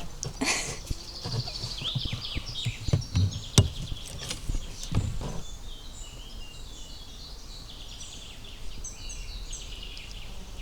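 Small birds chirping and trilling in a chorus of short, high calls. Several low knocks and thumps come in the first half, the sharpest about three and a half seconds in.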